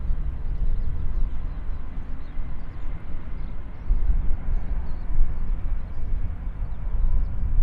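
Jet airliner engines running at a distance: a low rumble with a faint steady whine, mixed with wind buffeting the microphone.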